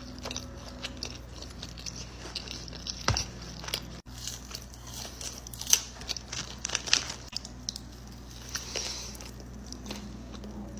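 A person eating: crunchy bites and chewing, with sharp crackles about three seconds in and several more around six to seven seconds.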